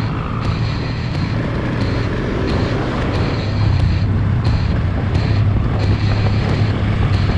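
Adventure motorcycle engine running under way, with wind buffeting the microphone; it gets a little louder about halfway through.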